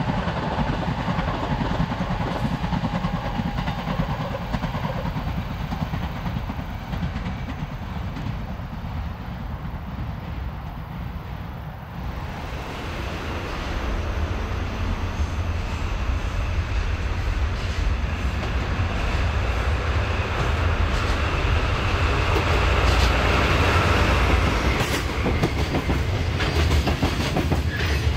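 Freight train hauled by a JR Freight DD51 diesel-hydraulic locomotive running, its wheels clicking over the rail joints. The sound changes abruptly about twelve seconds in, then grows heavier and louder, with sharp wheel clicks near the end.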